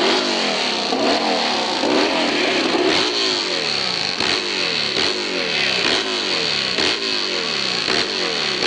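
Hillclimb racing motorcycle engine revving hard, its pitch rising and falling again and again as the throttle is worked.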